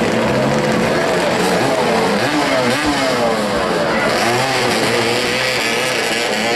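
Many voices shouting and calling over one another, like a crowd of spectators and players at a match.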